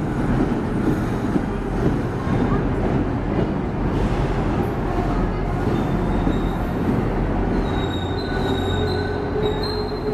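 MBTA commuter rail coaches roll past with a steady low rumble of wheels on the rails. From about halfway in, thin high-pitched wheel squeals set in and grow stronger toward the end as the train slows.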